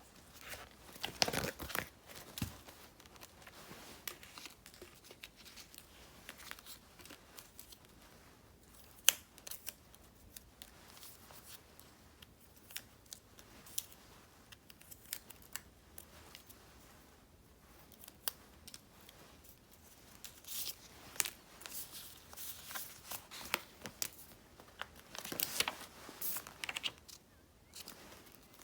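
Close-up paper and sticker handling for diary decorating: sheets and stickers rustled, crinkled and peeled, with scattered sharp ticks and taps. The crinkling is busiest about a second in and again through the last third, with one sharp click near the middle.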